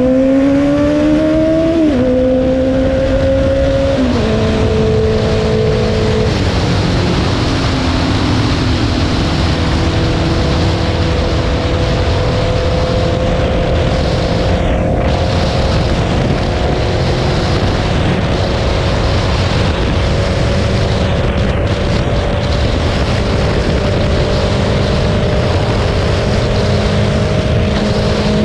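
2022 Honda CBR650R's inline-four engine pulling through the gears: the revs climb, then fall in three upshifts about two seconds apart, and the bike settles into a steady cruise with the engine note slowly rising, under heavy wind and road rush.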